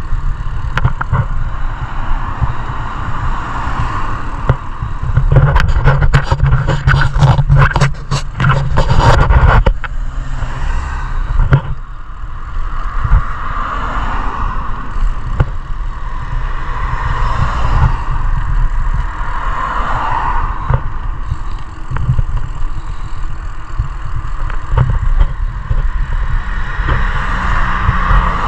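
Steady road noise of a bike ride recorded on a GoPro, with a stretch of clattering and scraping about five to ten seconds in.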